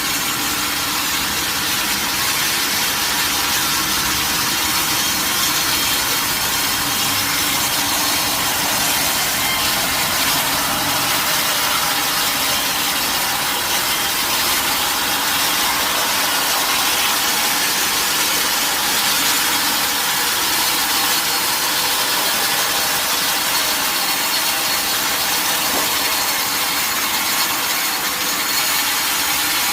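Sawmill saw running through a mahogany log: a steady, dense hiss of the blade in the wood over the hum of the mill's machinery, with no break.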